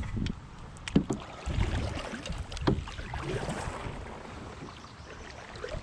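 A kayak moving on a creek: a steady low rumble of water and wind, broken by a few sharp clicks and knocks, about three within the first three seconds.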